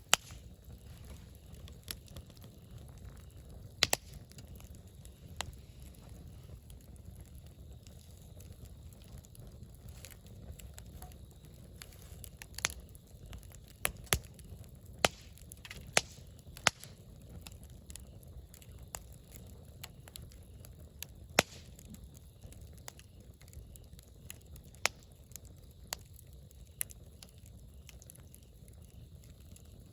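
Wood campfire crackling, with sharp irregular pops every second or two over a faint, steady low rumble.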